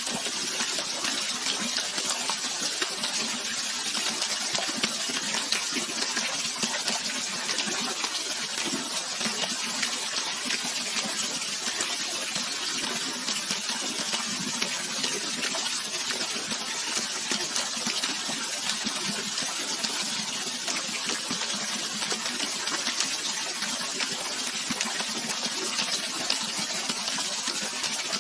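Running water rushing steadily, a continuous bright splashing hiss with no pauses or changes.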